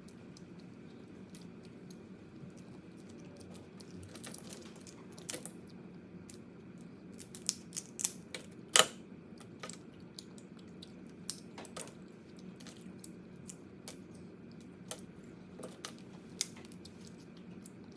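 Crab shell being cracked and picked apart while eating: irregular sharp clicks and cracks, bunched together about halfway through with one loud crack, over a steady low hum.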